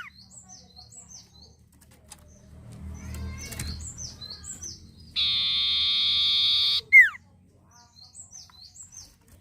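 Sirtu (cipoh) songbird singing: short runs of quick high chirps, then a long buzzing trill of about a second and a half from about five seconds in, cut off by a loud falling whistle.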